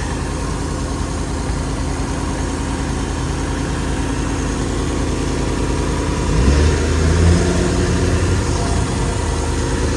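Lexus GX 470's 4.7-litre V8 idling steadily, its note swelling and rising briefly about six and a half seconds in before settling back.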